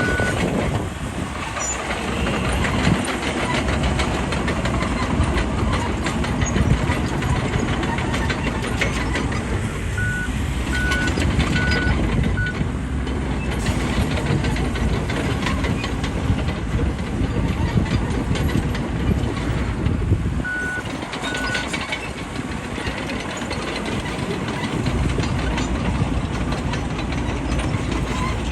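Bulldozer's diesel engine running under load with a dense clatter of its crawler tracks. A reversing alarm beeps in short runs: once at the start, four times about ten seconds in, and twice about twenty seconds in.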